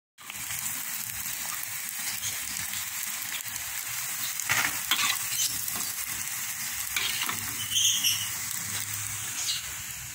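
Krupuk crackers sizzling steadily as they fry in hot oil in an enamel wok, with a spatula turning them and scraping the pan a few times around the middle.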